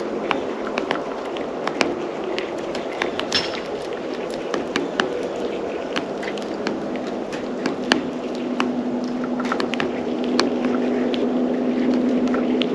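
Irregular sharp clicks and taps of birds pecking and landing at a seed feeder, over a steady background noise with a low hum that grows stronger about halfway through.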